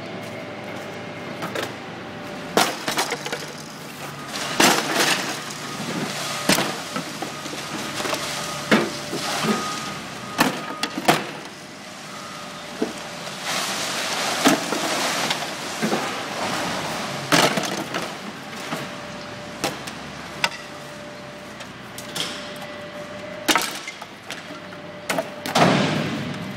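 Garbage truck dumping its load: refuse sliding out and crashing down in a long run of irregular bangs, cracks and clatters, over a steady mechanical hum from the truck.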